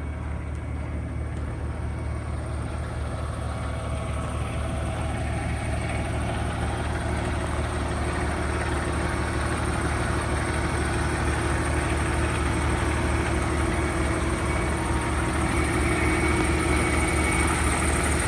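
Semi truck's diesel engine idling steadily, slowly growing louder.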